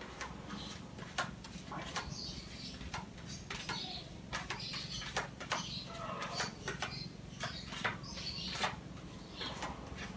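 Body filler and hardener being mixed on a metal pallet: irregular scraping and tapping clicks over a steady low hum.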